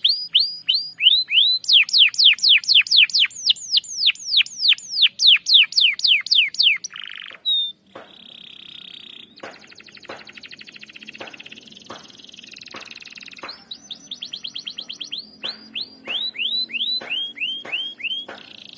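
Domestic canary singing: runs of quick whistled notes that each sweep steeply down in pitch, about five a second, then a buzzy note and a long fast rolling trill lasting several seconds, before the sweeping notes return near the end.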